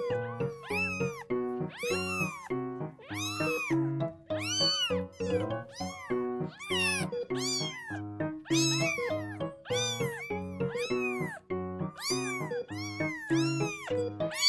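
Kitten crying: repeated high meows, roughly one or two a second, each rising and then falling in pitch, over background music.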